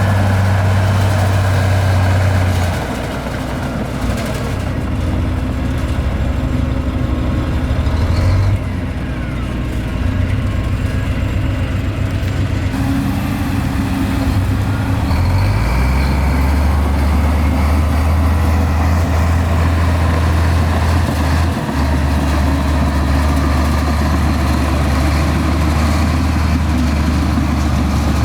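Heavy diesel engines of earthmoving machinery, a bulldozer and dump trucks, running steadily. The engine note steps up or down in pitch several times as load and speed change.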